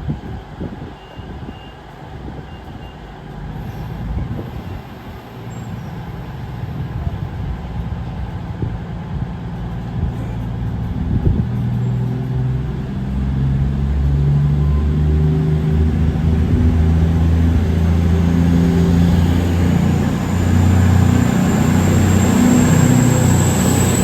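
A diesel train approaching through the station: the low drone of its engines grows steadily louder from about halfway through, with a faint rising whine near the end.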